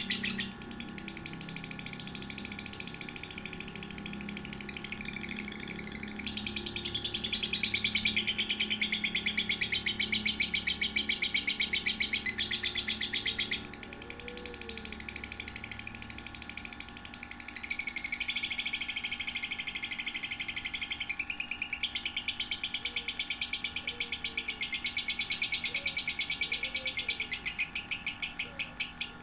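Lovebird chattering in a long, unbroken trill of rapid high chirps. It swells louder twice and drops back once in between.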